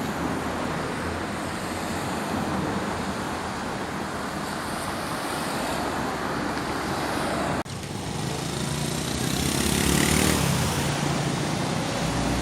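Steady rushing noise with no distinct events, broken off abruptly about seven and a half seconds in and then carrying on slightly louder.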